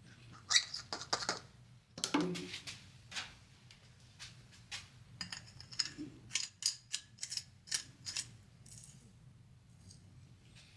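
Scattered light clicks and knocks of a plastic pump sprayer being handled and closed up after filling with hot degreaser, with a quick run of clicks in the middle.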